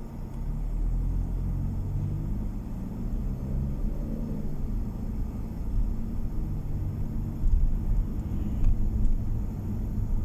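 A car being driven, heard from inside the cabin: a steady low engine and road rumble, with the engine note rising over the first few seconds and then falling back.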